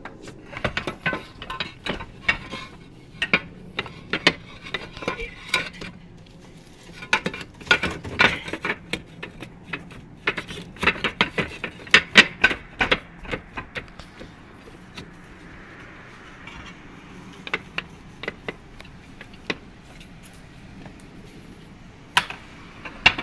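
Irregular clicks and clinks of hard objects being knocked or handled, coming thick and fast for the first half and only now and then after that.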